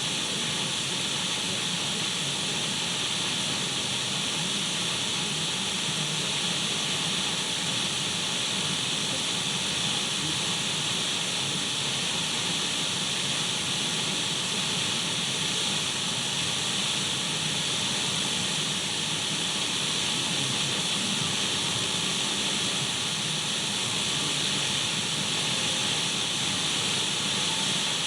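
Radio static: a steady, even hiss of an untuned radio, unchanging throughout, brightest in the upper treble.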